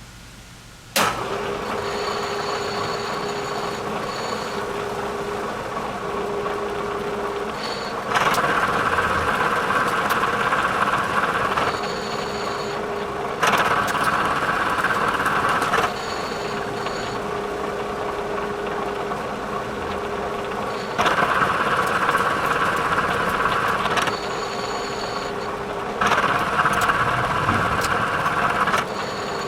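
Bridgeport milling machine started about a second in and running steadily, with four louder, harsher stretches of a few seconds each as the cutter takes passes, milling the vise-stop blank down flat to size.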